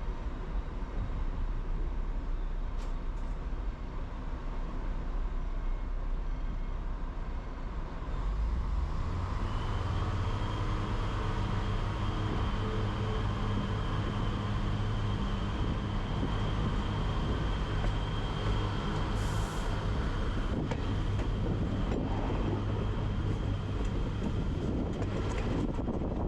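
Train running: a low rumble that grows louder about eight seconds in, joined by a steady high whine.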